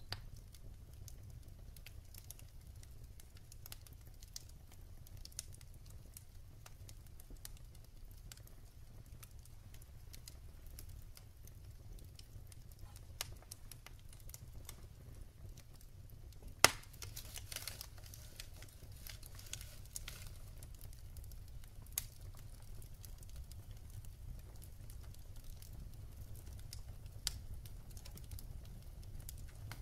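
Wood burning in a fireplace, crackling with scattered sharp pops over a low steady rumble of the flames; one pop about halfway through is much louder than the rest and is followed by a short hiss.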